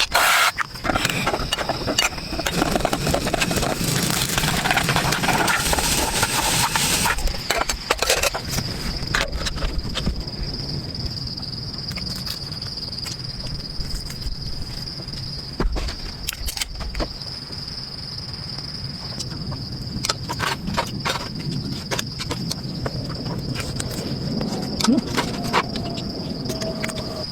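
Insects chirring in one steady, high, unbroken tone, with scattered clicks and knocks of handling nearby. A hiss of noise covers the first seven seconds or so.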